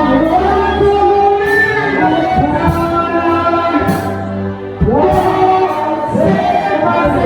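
Church congregation singing a slow gospel chorus in long, held notes that glide between pitches, over a steady low bass accompaniment.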